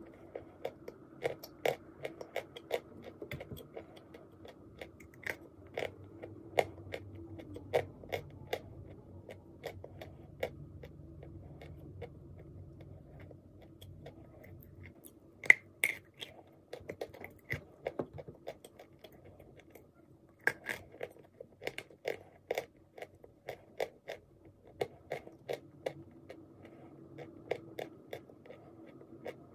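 Chewing of dry white clay lumps: a run of crisp crunches and clicks, a few a second, with two sharper, louder bites about halfway through and a few seconds later.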